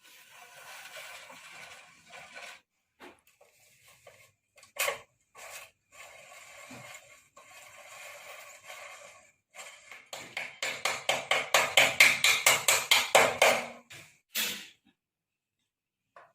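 Scraping by hand: uneven runs of rubbing with a few single knocks, then a quick, louder run of strokes, about five a second, near the end.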